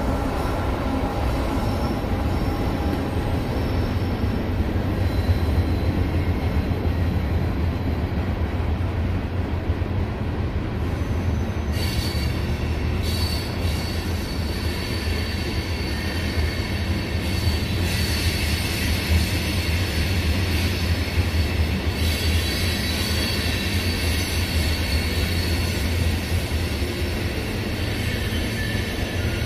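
A CSX train passing on the line with a steady low rumble, its wheels squealing in high thin tones that come and go from about twelve seconds in.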